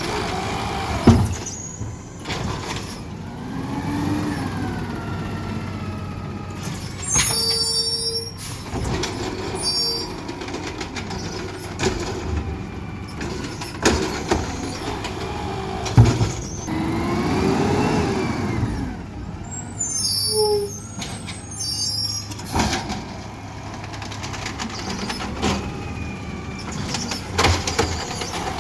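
Garbage truck working: its engine runs steadily under a slow rising-and-falling whine that comes twice, with several sharp knocks and two brief high squeals.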